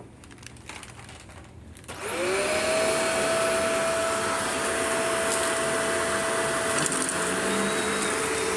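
A few faint clicks, then about two seconds in a Shark Rotator upright vacuum cleaner switches on: its motor whine rises quickly to a steady pitch and keeps running steadily.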